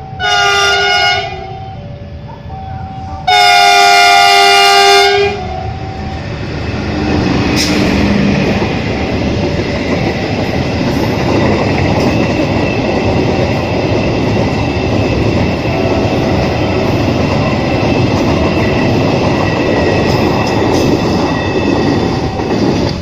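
Locomotive horn sounding twice, a short blast and then a longer one about three seconds in, followed by the steady rumble and wheel clatter of a train running past.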